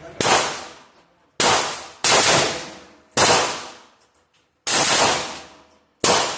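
Six handgun shots fired one at a time at an uneven pace, about one a second, each a sharp crack with a short echo. This is the shooter emptying the last rounds of the magazine.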